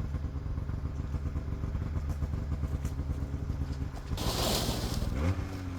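Two-stroke Arctic Cat snowmobile engine running steadily on the trail. About four seconds in there is a loud rush of hiss, and the engine briefly revs up just after it.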